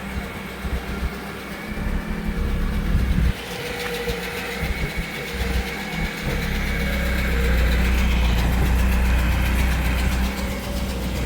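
A motor vehicle's engine idling: a steady low rumble that grows stronger about six seconds in.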